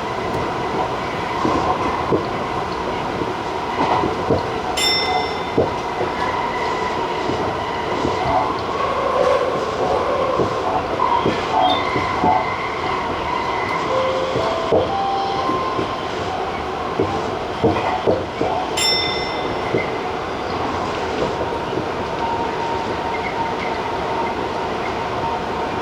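Tobu TJ Liner electric train running along the line, heard from the front car: a steady rolling noise with scattered clacks of the wheels over the rails. Two short high-pitched tones sound, about 14 seconds apart.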